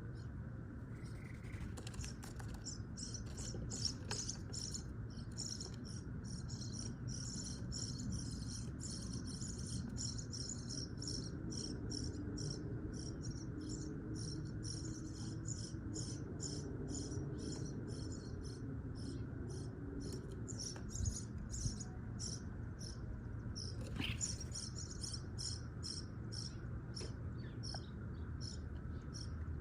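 Starlings nesting in a wall exhaust vent, giving rapid, evenly repeated high chirps, about three a second, over a steady low rumble.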